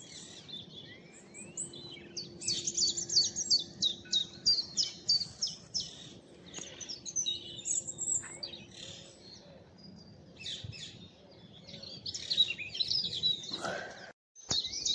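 Several songbirds singing at once in woodland scrub, overlapping high chirps and phrases, with a quick run of repeated high notes a couple of seconds in.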